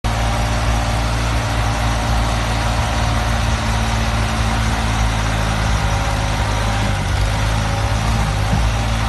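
New Holland 3630 tractor's three-cylinder diesel engine running steadily at a constant speed.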